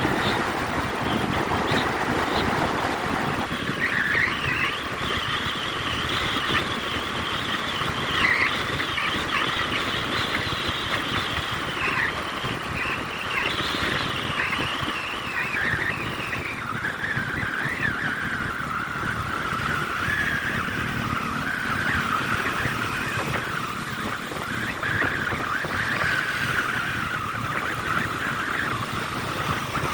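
Motorcycle running on the road, its engine note rising and falling, with heavy wind noise on the microphone.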